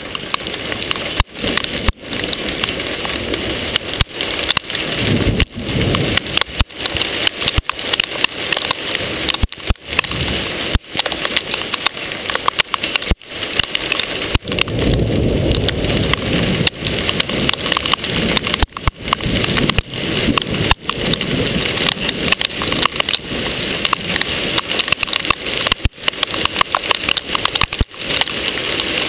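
Hail and heavy rain pelting a hard surface, a loud dense clatter of countless small impacts with no let-up. A low rumble swells in about five seconds in and again around the middle.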